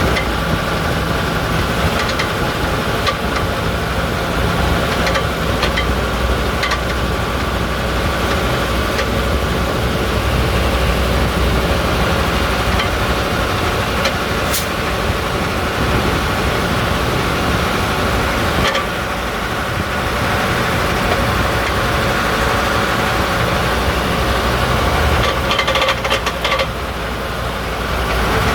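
Setra S80 bus with its engine running steadily and irregular clicking rattles over it, the rattle that the owner traces to the rear axle.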